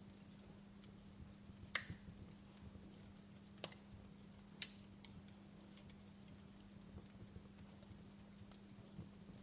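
Wood fire crackling in a fireplace: scattered small snaps over a faint steady low hum, with a few sharper pops, the loudest about two seconds in and two more around three and a half and four and a half seconds in.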